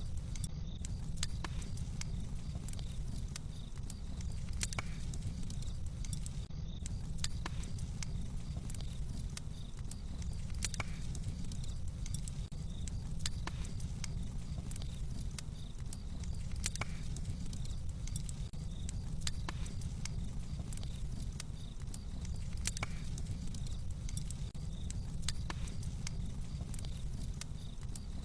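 Fireplace crackling: a steady low noise of the burning fire with scattered sharp pops and crackles.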